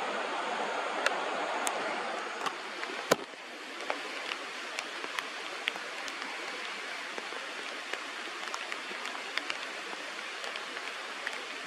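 Steady rush of flowing river water, with scattered faint sharp clicks. A louder click about three seconds in, after which the rushing turns a little softer and thinner.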